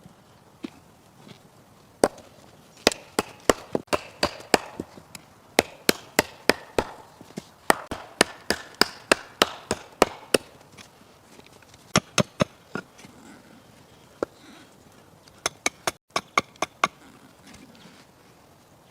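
A run of sharp chopping strikes, about three a second, coming in bursts with short pauses between them.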